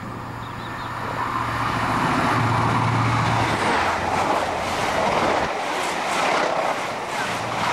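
HST (InterCity 125) running through the station at speed. A diesel power car's steady hum swells and passes about three seconds in, then the coaches rush past with a dense noise of wheels on rails.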